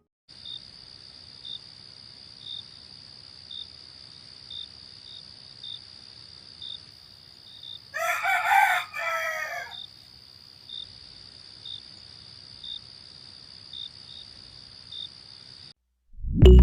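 A rooster crows once about eight seconds in, over a steady high-pitched insect drone and short insect chirps about once a second.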